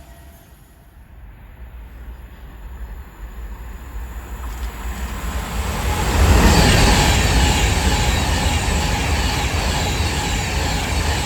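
A train approaching and passing close by. Its rumble and rail noise build steadily for about six seconds, then stay loud.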